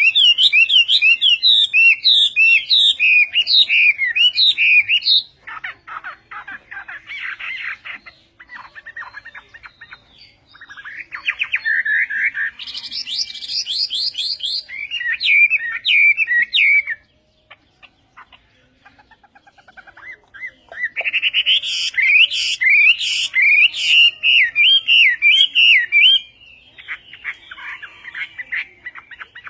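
Hwamei songbird singing: three loud runs of fast, varied whistled notes, with quieter stretches of softer twittering between them.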